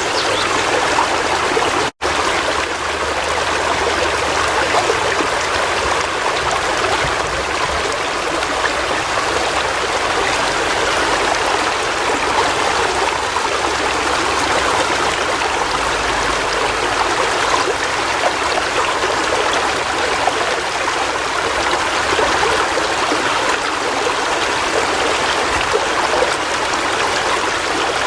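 River water flowing steadily, a continuous even rush and trickle, with a momentary drop-out to silence about two seconds in.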